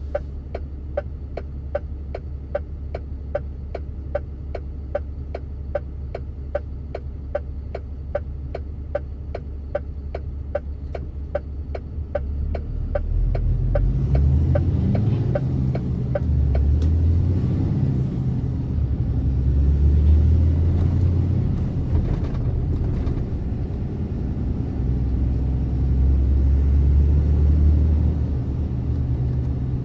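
A truck's engine idles with a steady, even ticking of the turn-signal relay, a few clicks a second. About thirteen seconds in the ticking stops and the engine rumble grows louder, rising and falling as the truck pulls away and drives on.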